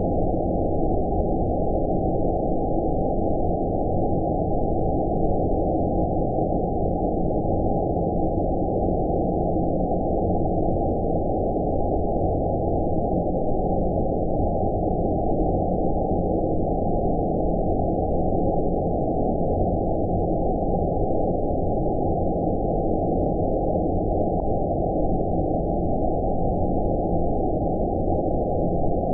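Steady, muffled noise for sleep, with everything above about 900 Hz cut away so that it sounds deep and dull, like a low rumble. It holds an even level with no changes.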